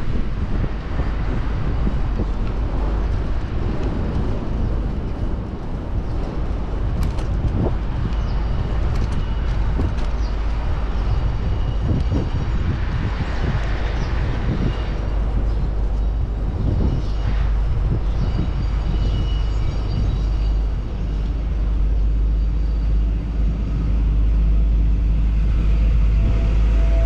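Wind buffeting the microphone of a moving bicycle, over the steady noise of city traffic, with a few short clicks and faint high tones around the middle. The wind rumble grows a little louder near the end.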